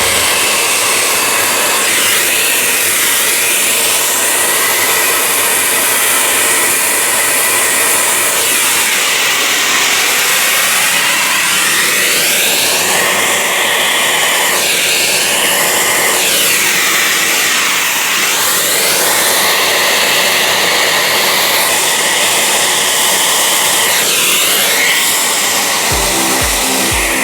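Small electric blower or vacuum motor running steadily with a loud whoosh whose tone slowly sweeps up and down. A rhythmic low thumping comes in near the end.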